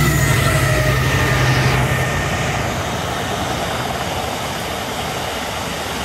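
A Colas Rail Freight diesel locomotive passes close by, its engine drone and whine fading over the first two seconds. A long train of box wagons then rolls past with a steady rumble and rattle of wheels on rail.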